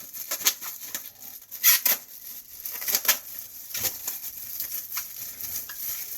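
Thin plastic crinkling and rustling in irregular bursts, with a few sharper crackles about a second and a half and three seconds in.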